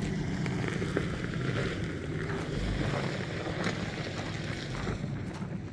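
A vehicle engine idling steadily with a low hum, fading slowly, with wind on the microphone.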